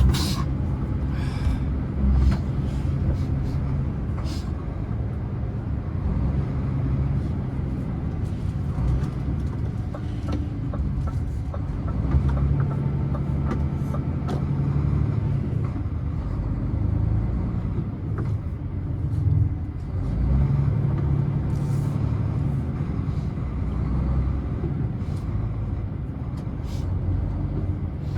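Scania truck running downhill, a steady low engine and road rumble that swells and eases slightly, with a few brief hisses or clicks.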